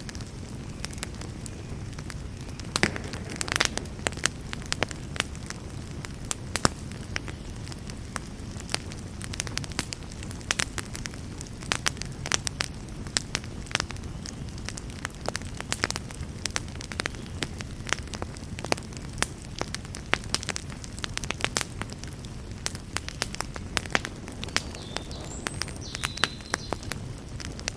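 Campfire burning and crackling: irregular sharp pops and snaps over a steady low rumble of flame.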